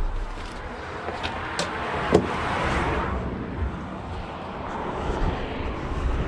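A road vehicle passing, its noise swelling and fading, with a single sharp knock about two seconds in.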